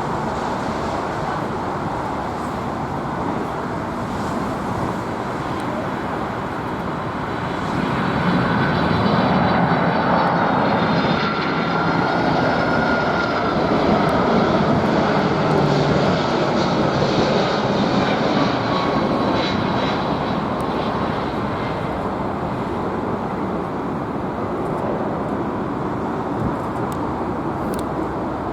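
Boeing 747 jet engines running as the airliner passes. The noise grows louder about eight seconds in, with a high whine over the roar, and eases off gradually in the second half.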